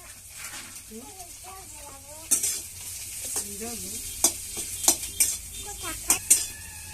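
Food frying and sizzling in hot oil in a pan while a metal spoon stirs it, knocking against the pan about six times from about two seconds in.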